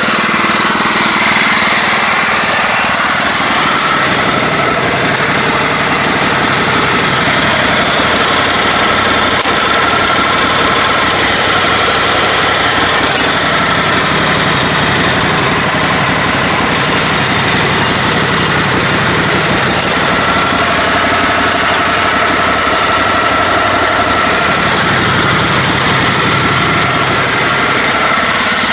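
Engine of a lifted, modified riding lawn mower running continuously off-road, its low note shifting up and down for a while in the middle.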